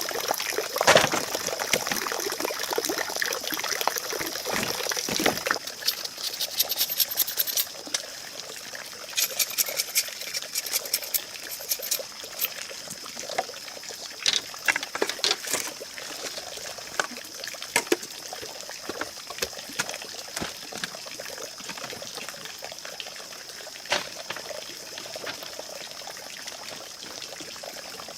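Water trickling steadily, with scattered clicks and knocks from bamboo being handled and fitted, busiest in the first several seconds.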